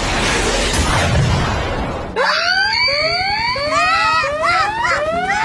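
Cartoon sound effects: a loud rushing noise for about two seconds, then a run of quick rising whistles, about two a second, with wavering squeal-like tones over them.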